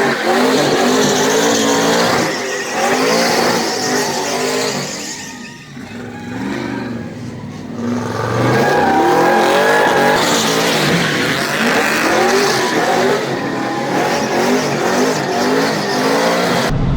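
A burnout truck's engine revving up and down with tires squealing as it drifts, easing off for a few seconds near the middle before picking up again.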